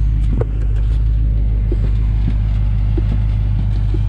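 Jeep engine running steadily at low revs during a rock crawl, with a few faint light clicks over it.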